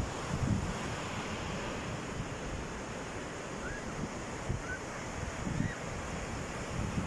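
Sea waves washing steadily onto the shore, with wind buffeting the microphone in a few low thumps.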